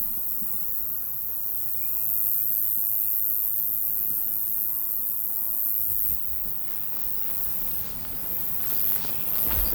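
Crickets and grasshoppers stridulating in dry meadow grass on a hot day: a steady, very high-pitched shrill that breaks into short pulses from about six seconds in. Three short whistled notes sound between about two and four seconds.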